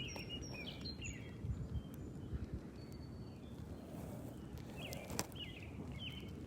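Small birds chirping in short, quick notes that hook up and down in pitch, a cluster in the first second and another near the end, over a low steady outdoor background noise. A single sharp knock about five seconds in.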